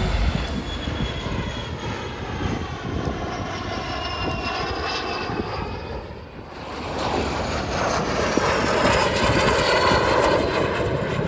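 Lockheed T-33 jet trainer flying past, its whining engine note falling in pitch as it goes by. The sound dips about six seconds in, then builds louder again as the jet comes back around.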